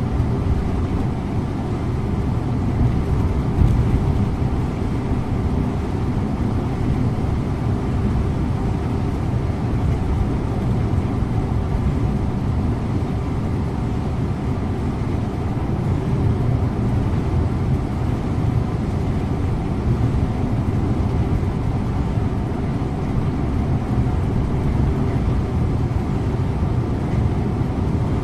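Scania InterLink coach's diesel engine and tyre-and-road rumble, heard from the driver's seat while the bus runs at a steady pace. The drone holds even throughout.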